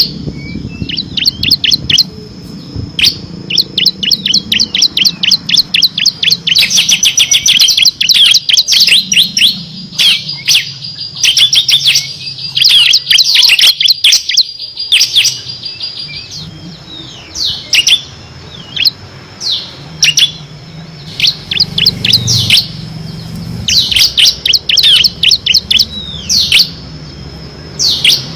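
Ciblek (bar-winged prinia) singing loudly in rapid runs of high, sharp chirps. The densest, fastest run comes in the first half (the 'ngebren' machine-gun style); later come shorter bursts and single down-slurred notes.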